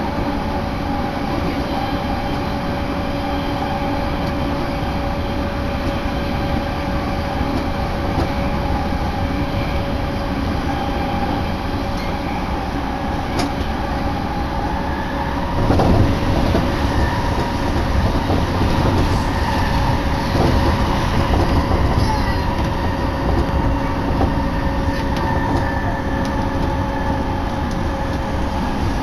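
Running noise heard from inside a moving electric commuter train car: a steady rumble of wheels on the track with a constant whine. About halfway through it gets louder with a thump, and the rumble stays heavier afterwards.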